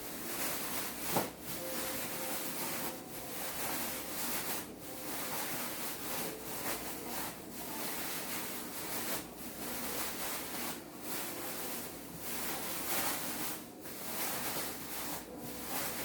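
Raw chicken pieces being rubbed and tossed in flour: a dry rubbing, scraping noise in repeated strokes, with a sharp knock about a second in.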